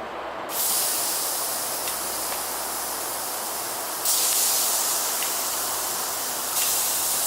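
Filet mignon searing in a hot pan: a loud sizzle that starts suddenly about half a second in and jumps louder around four seconds in.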